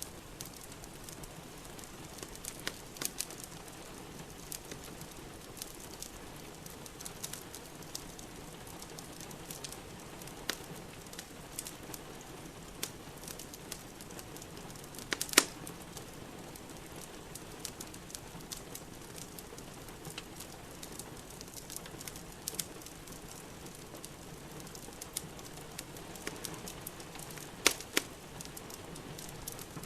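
Wood fire crackling in a fireplace, with scattered sharp pops over a steady hiss of rain. Two pops stand out as loudest, one about halfway through and one near the end.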